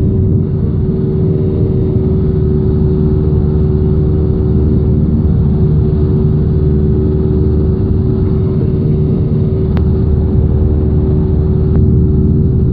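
Cessna 172's piston engine and propeller droning steadily in flight, heard inside the cockpit.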